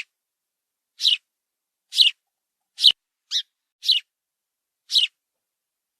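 House sparrow chirping: a string of short, high chirps about a second apart, a few of them closer together in the middle.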